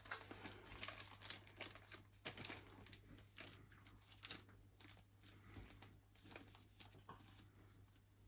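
Faint crinkling and rustling of packaging being handled and pulled at, a scatter of small irregular crackles that is busiest in the first couple of seconds and then thins out.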